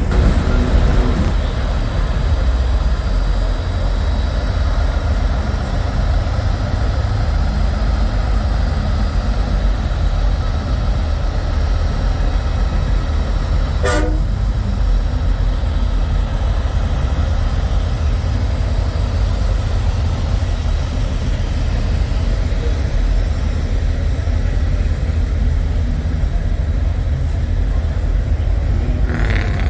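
Semi trucks' diesel engines idling, a steady low rumble, with one short horn toot about halfway through.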